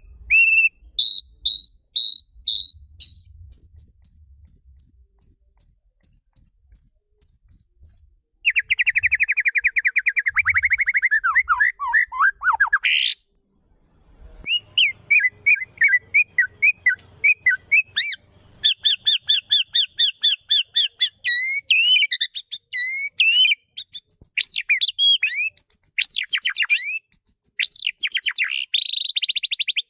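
White-rumped shama (murai batu) song: loud, varied phrases of repeated short whistled notes, fast trills and rising sweeps, with a brief pause a little before halfway.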